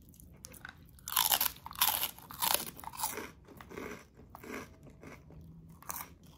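Chicharon (fried pork rind) crunched between the teeth and chewed: several loud crunches about a second in, then softer chewing crunches that taper off.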